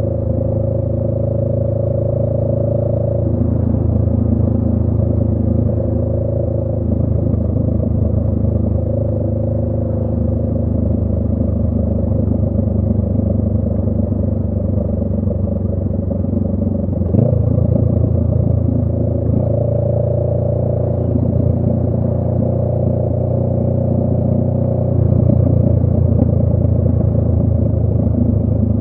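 Honda Rebel 500's parallel-twin engine running through a Radiant Cycles Shorty GP aftermarket exhaust while riding. The engine note changes pitch a few times, with a short click about 17 seconds in and a louder stretch near the end.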